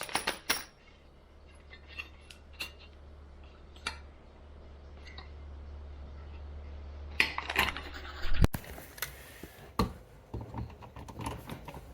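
Scattered light clicks and metallic taps from handling small metal electrical hardware, over a low steady hum that stops about eight and a half seconds in.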